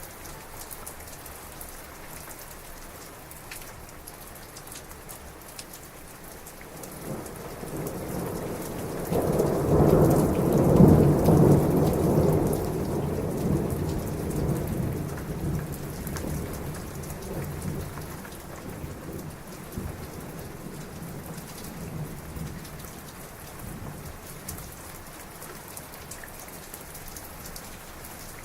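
Heavy rain falling steadily, with one long roll of thunder that builds about a quarter of the way in, peaks near the middle and rumbles away over about ten seconds.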